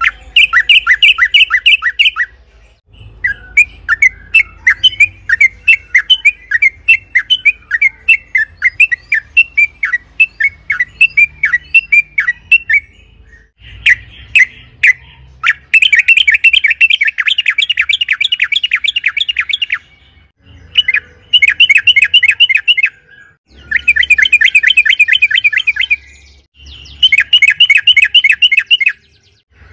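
Yellow-vented bulbul (trucukan) singing in loud bursts of fast, repeated chattering notes. The phrases run up to about four seconds each, with short pauses between them.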